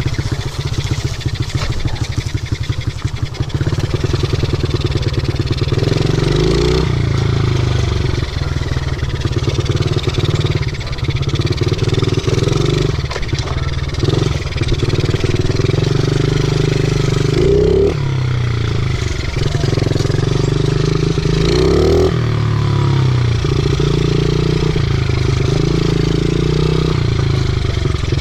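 50cc pit bike engine running while being ridden, its pitch rising and falling with the throttle, with quick sharp revs about 6, 18 and 22 seconds in.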